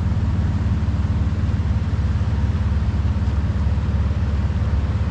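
A vehicle engine idling steadily: a continuous low rumble.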